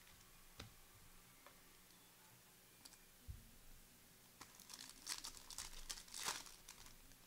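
Faint clicks, then from about four and a half seconds in a couple of seconds of crinkling and rustling as trading cards and their packaging are handled.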